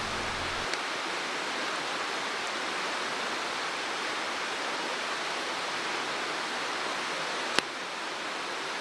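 Mountain stream rushing steadily, with a faint click near the start and one sharp crack a little before the end.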